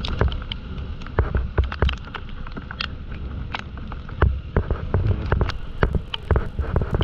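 Raindrops ticking irregularly on the microphone over a low wind rumble.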